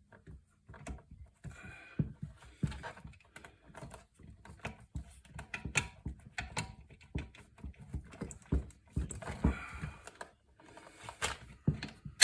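Irregular clicks, knocks and rattles of parts and tools being handled as the carburetor is worked loose from a small lawn-edger engine.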